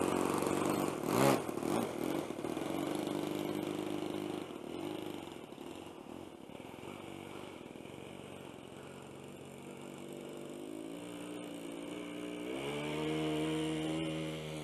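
Engine of a radio-control model Skyraider plane running, with a short loud burst about a second in. It then drops back and the pitch shifts, and near the end it climbs in pitch and gets louder as the throttle opens or the plane comes closer.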